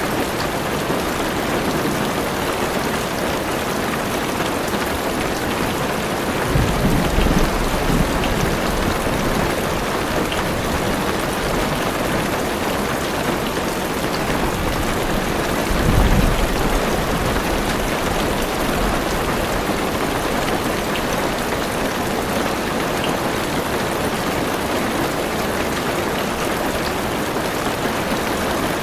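Heavy rain drumming steadily on a car's roof and windows, with two brief low rumbles of thunder, one about a quarter of the way in and one a little past the middle.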